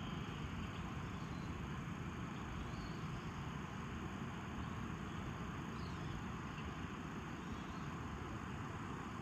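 Steady outdoor background noise with a low rumble, with a few faint high chirps now and then.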